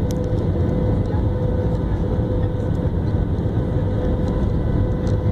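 Aircraft engine noise: a steady low rumble with a constant tone over it.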